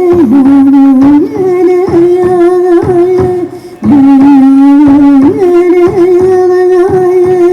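Sami folk music: a melody of long, steady held notes with short slides between them, breaking off briefly about three and a half seconds in.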